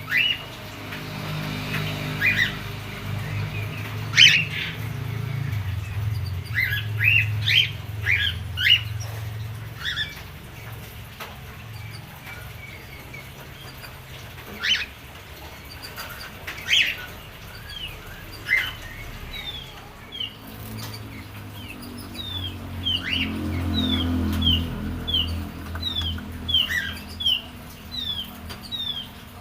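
A small songbird calling with short, sharp chirps, scattered at first and then a quick run of falling chirps in the last third. A low rumble rises and fades twice underneath.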